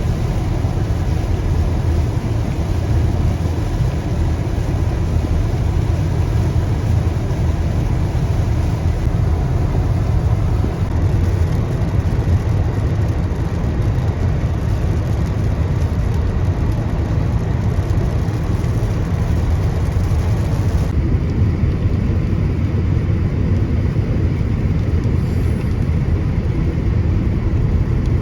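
Steady rumble and hiss of a car driving: low road and engine rumble under a noisy hiss. About 21 seconds in, the hiss in the upper range drops off suddenly while the rumble carries on.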